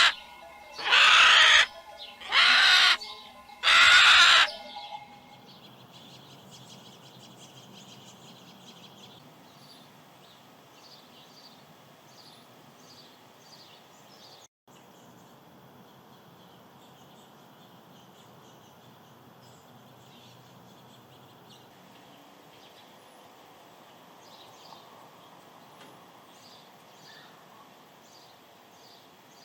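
Three or four loud, harsh bird calls in the first few seconds, then faint chirping of birds in the background.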